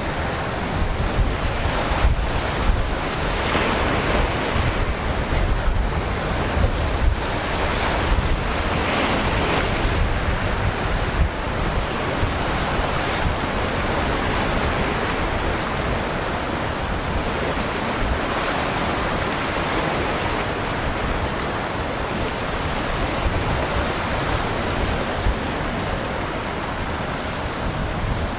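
Waves surging and breaking, with wind buffeting the microphone: a steady rush and low rumble, and no engine tone standing out.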